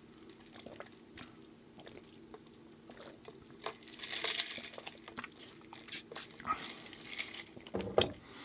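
Close-up eating sounds of a person biting and chewing food, with wet mouth clicks and a crunchy stretch partway through. The loudest mouth sound comes near the end.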